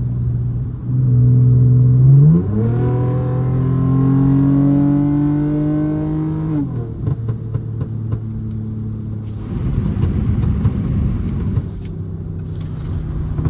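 Straight-piped V6 exhaust of a tuned 2009 Mercedes-Benz C350 pulling under acceleration: the note jumps up about two seconds in, climbs steadily, then drops away about two-thirds of the way through as the throttle comes off. It then runs rougher and noisier, with scattered pops near the end.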